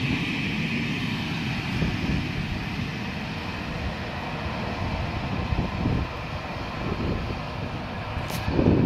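A railway train running with a steady low rumble.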